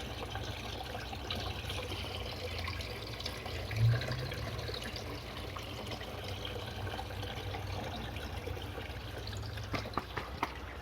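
Water trickling steadily into an aquaponics tank, over a low steady hum. There is a brief bump about four seconds in and a few sharp clicks near the end.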